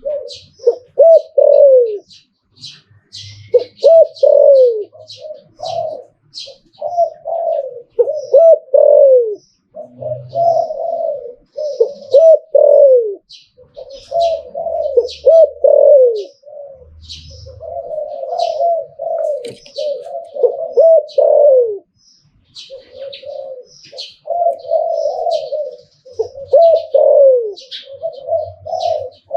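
Spotted dove cooing, phrase after phrase, each ending in falling notes, with brief pauses between bouts.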